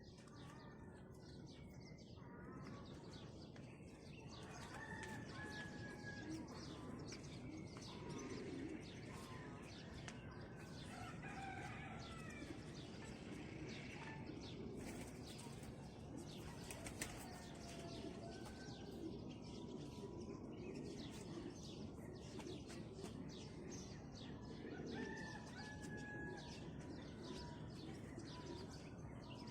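Several birds chirping and calling: many quick short chirps, with brief clear whistled notes heard now and then.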